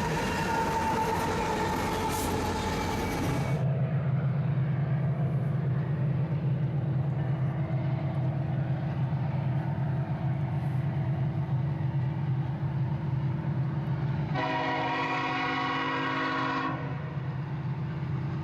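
Freight train passing with wheel and rail noise, then after an abrupt change a diesel locomotive running with a steady low drone. Near the end the locomotive's air horn sounds one blast of several tones together, about two seconds long.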